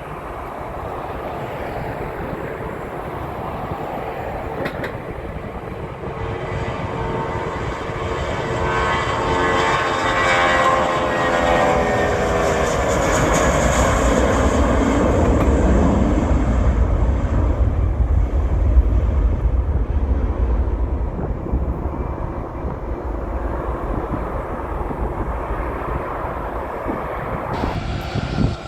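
Twin-engine narrowbody jet airliner departing past the runway: the engine noise builds, a set of whining tones slides down in pitch as it goes by, and a deep rumble peaks about two-thirds through before easing off. The sound changes abruptly near the end.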